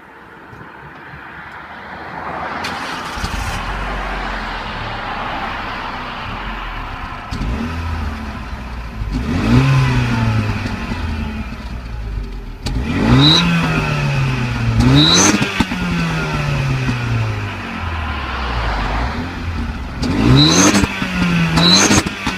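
Renault Mégane Sport 225's 2.0-litre turbocharged four-cylinder engine, heard at the exhaust: it settles into a steady idle, then is blipped several times. Each rev rises quickly in pitch and falls back slowly to idle.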